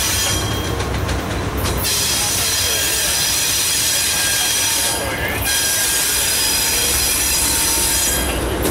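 Norfolk Southern GE Dash 9-40C diesel-electric locomotives running past with a low engine rumble, while the train's wheels squeal with a steady high-pitched ring that breaks off briefly twice.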